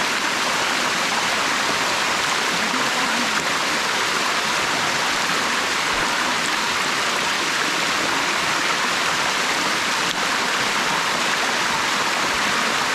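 Waterfall water rushing steadily over the rocks, a constant, dense splashing roar with no breaks.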